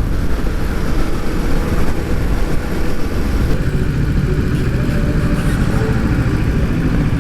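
Kawasaki motorcycle engine running steadily while riding, mixed with road and wind noise.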